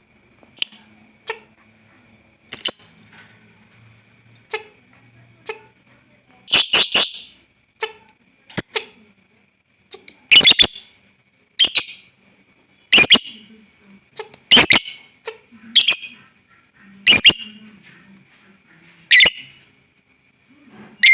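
Lovebird giving short, sharp chirps one at a time at irregular intervals, about a dozen, some in quick pairs. These are the broken calls of a lovebird learning to ngekek, not yet a sustained chatter.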